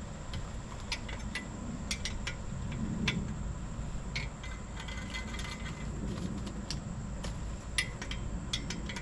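Light metallic clicks and clinks at irregular intervals as metal hand tools and parts are handled, over a steady low hum.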